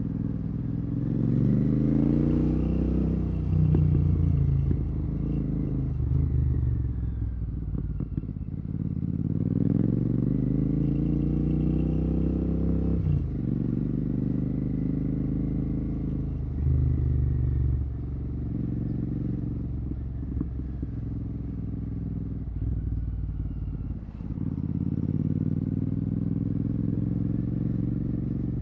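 Royal Enfield Continental GT 650's parallel-twin engine through a Red Rooster exhaust with no dB killer, pulling up through the gears in traffic. Its note rises with each pull and drops sharply at each upshift, several times, with steadier cruising stretches in between.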